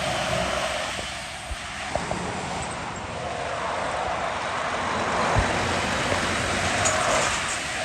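Road traffic passing close by: tyre and engine noise swells as a vehicle approaches, and its pitch falls as it goes past shortly before the end.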